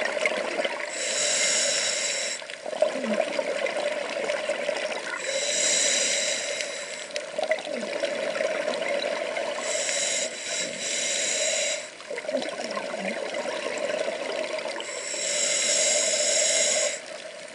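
A diver's breathing heard underwater: four long hissing breaths, one about every four to five seconds, with water sloshing and bubbling between them.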